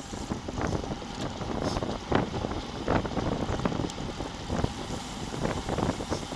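Wind buffeting a bike-mounted action camera's microphone, over a steady low rumble of tyres on the road, with many short rattles and knocks from the bicycle.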